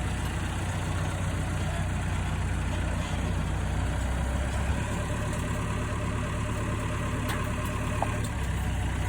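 A heavy engine idling steadily, its note shifting slightly about halfway in and again near the end.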